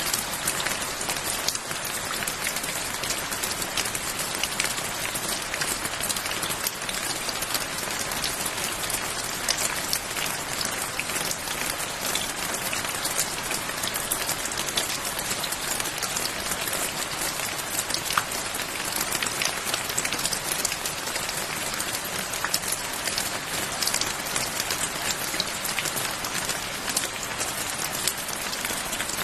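Steady rain falling and pattering on a surface, with many individual drop impacts over an even hiss.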